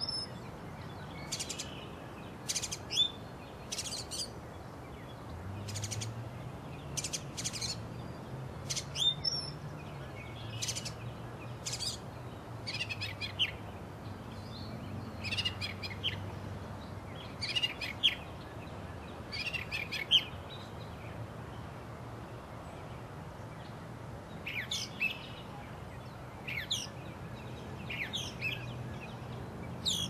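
Small birds chirping: short, high calls repeated every second or two, with a pause of a few seconds about two-thirds of the way through.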